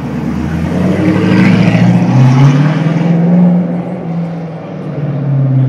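TVR sports car's engine running loud as it passes close by and pulls away. Its deep exhaust note swells in the middle seconds, rises a little in pitch and then eases off.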